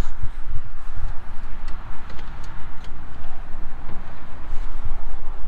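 Scattered sharp clicks and rattles as the tractor's hood panel is worked open by hand, over a steady low rumble.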